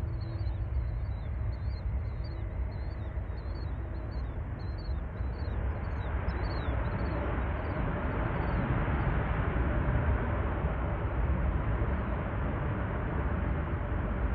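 Jet airliner engine noise swelling as a plane passes, growing louder about halfway through and peaking a little after, over a constant low rumble.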